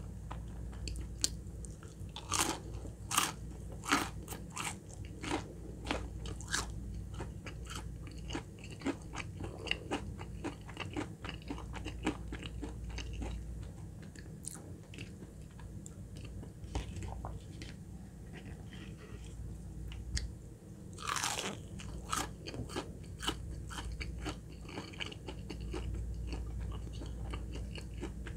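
Close-miked crunchy biting and chewing of crispy fried chicken nuggets, the breading cracking in sharp crunches. The crunches are densest about two to four seconds in, with the loudest single bite about 21 seconds in, over a steady low hum.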